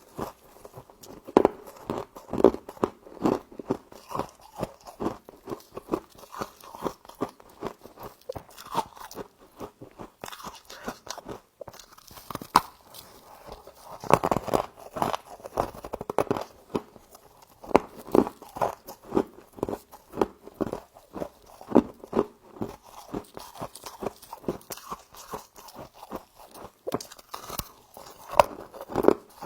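Close-up chewing and crunching of a mouthful of frost: a rapid series of short, sharp crunches, about two a second, with brief pauses between bites.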